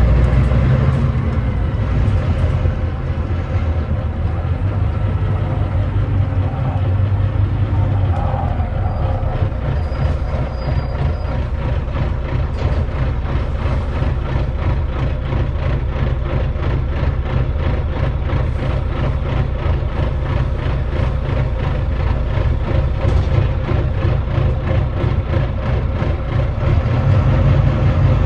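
Volvo D9B 9.3-litre diesel engine of a Volvo B9TL double-decker bus, heard from on board, running steadily with a heavy, evenly pulsing beat. The engine is misfiring.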